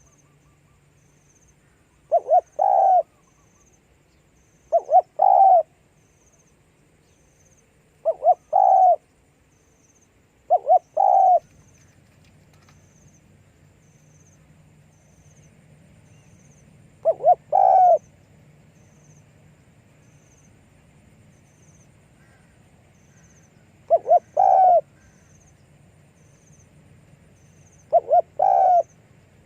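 A spotted dove cooing seven times, each call two short quick notes followed by a longer coo, at uneven gaps of a few seconds.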